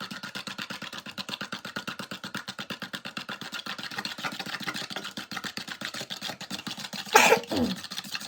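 Eggs with seasoning being beaten by hand in a small bowl: rapid, even strokes of the utensil clicking against the bowl. Near the end there is a short louder sound that falls in pitch.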